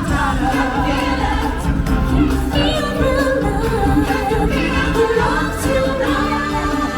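A choir singing over instrumental music, with several voices holding wavering notes.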